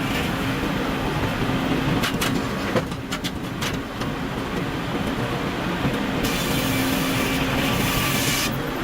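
Sawmill machinery running steadily with a low hum, a few clattering knocks a couple of seconds in, and a band of hiss rising over it from about six seconds in until shortly before the end.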